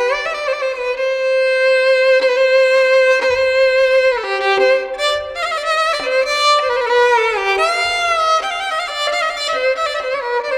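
Background music: a violin playing a slow melody with long held notes, starting abruptly out of silence.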